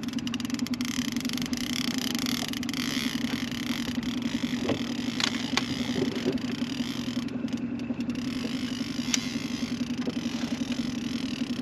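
Boat motor running steadily at trolling speed, with a few short clicks here and there.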